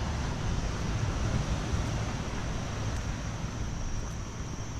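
Steady, even outdoor rushing noise with a low rumble and no distinct events.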